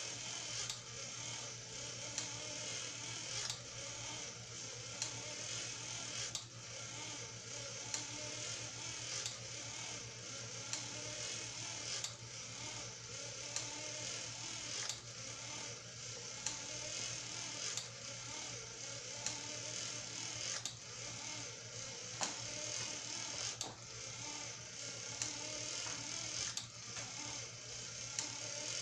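Small electric motor driving a plastic toy-robot-kit gear train, whirring steadily, with a sharp click about every one and a half seconds.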